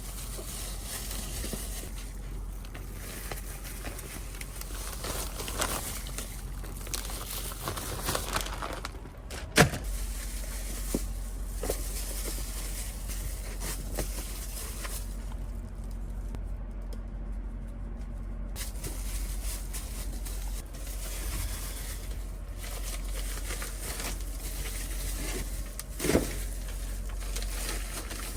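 Food being handled during meal prep: scattered clicks, rustles and knocks of containers and packaging, with one sharp knock about ten seconds in, over a steady low hum.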